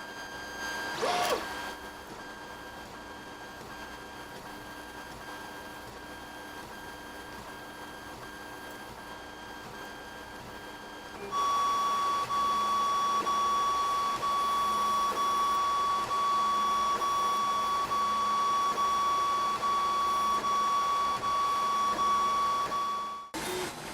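3D printer's stepper motors whining at a steady pitch while it prints. A short sweep sounds about a second in, and about halfway through a louder, higher single whine takes over and holds steady until it cuts off near the end.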